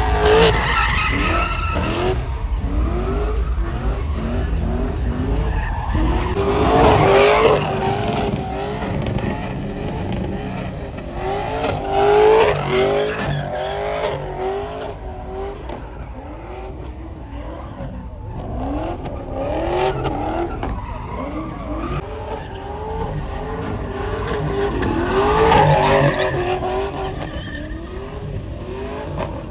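Truck tires squealing in a burnout or donuts while the engine revs rise and drop over and over, swelling louder three times.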